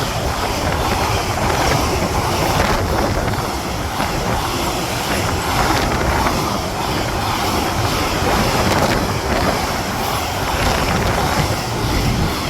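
A train running past on the rails: a steady, loud rush of wheels on track with faint clicks from the rail joints.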